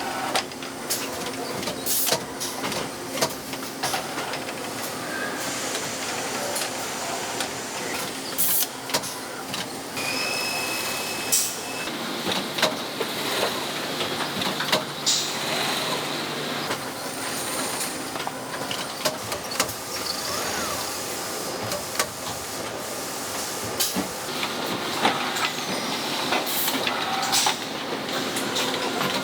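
Motor assembly line machinery running, a steady mechanical din with frequent sharp clicks and clatters of metal parts and a hiss. A couple of short high tones sound about a third of the way in.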